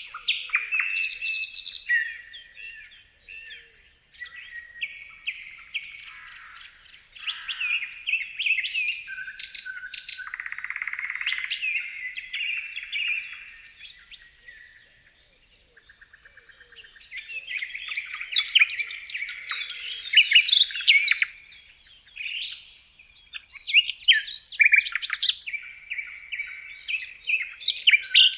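Several birds chirping and singing in quick, varied high-pitched calls and trills, with a short lull about halfway through.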